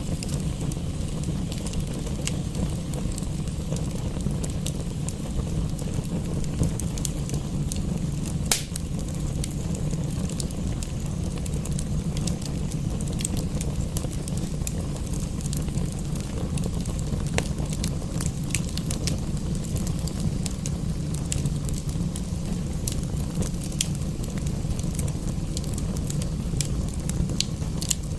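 Wood fire crackling in a fireplace: scattered sharp snaps and pops over a steady low rumble, with one louder pop about eight seconds in.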